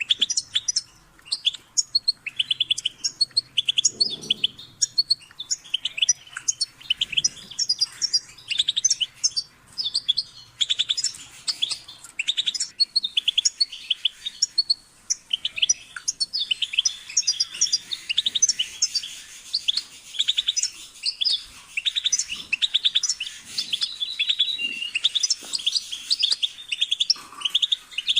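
European goldfinch singing: fast twittering phrases of chirps and trills, broken by brief pauses.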